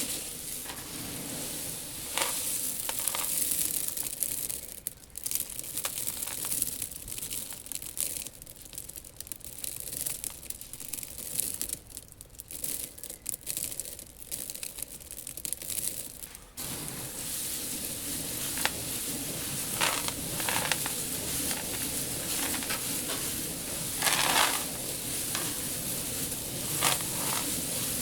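Dry seeds rustling and shifting in a seed tank: a dense hiss with scattered crunches and clicks. It thins to sparse clicks for a stretch, then a steady hiss returns about halfway through, with a few louder rushes.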